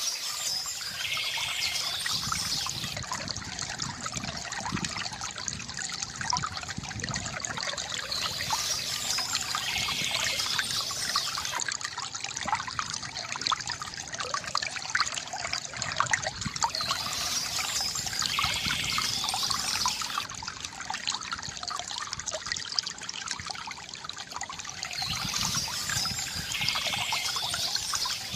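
Water from a bamboo fountain trickling and splashing steadily, full of small splashing clicks.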